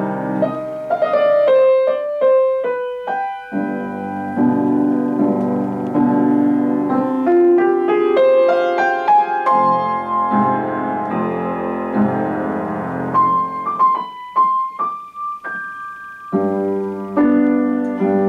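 Solo piano playing a slow classical-style piece. Full chords over a bass line alternate with sparser runs of single high notes: the bass drops out about a second in and again around thirteen seconds, then the full chords come back near the end.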